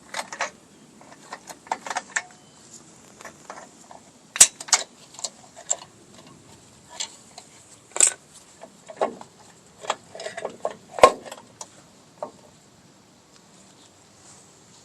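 Irregular metallic clinks and clicks of hand tools working on rear drum-brake springs and hardware as the brake is taken apart. Three sharper, louder clanks come about four, eight and eleven seconds in.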